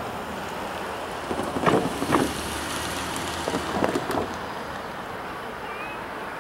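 Freight train rolling by slowly over steady wind noise, its wheels knocking over a rail joint in two pairs of clacks about two seconds apart.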